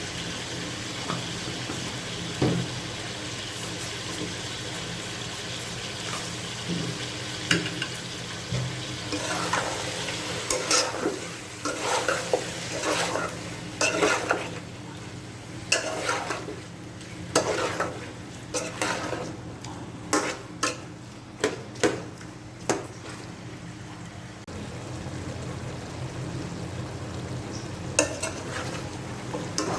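Chicken tinola ingredients sizzling in hot oil in a pot while being stirred. A utensil scrapes and knocks against the pot many times through the middle stretch, with a steady sizzle before and after.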